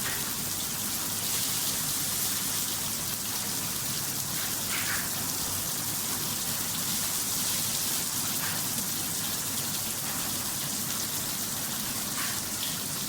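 Water spraying steadily onto an LED flood light, an even hiss with no break, during a waterproof test.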